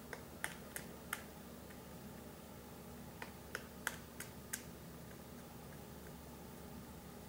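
Woodpecker pecking at wood: faint single sharp taps, about three a second, in two short runs, the first near the start and the second a little past the middle.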